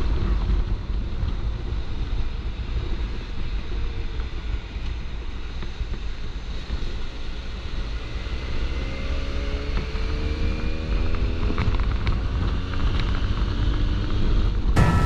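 Benelli TNT300 motorcycle's parallel-twin engine running on the road, heavy wind rumble on the microphone over it. About eight seconds in, the engine note rises as the bike accelerates.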